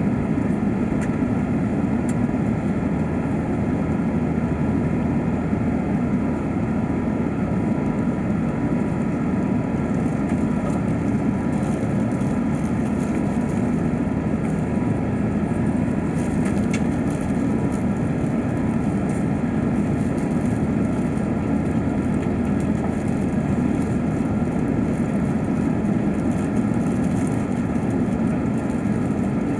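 Steady, even cabin noise of an Airbus A380-800 in flight: the constant low rush of airflow and engine noise heard from inside the economy cabin.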